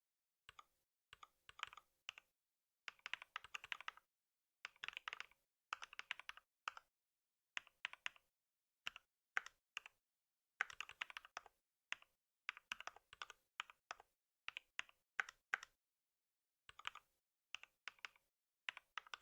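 Typing on a computer keyboard in quick bursts of keystrokes, broken by short pauses.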